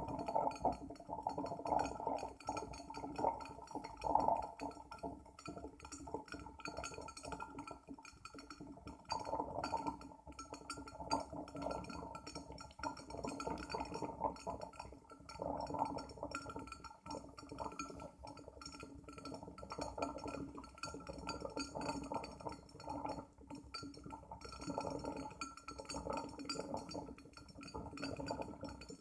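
Glass Cona vacuum coffee maker bubbling and gurgling as it heats, full of small crackles and glassy clinks that swell and fade every few seconds.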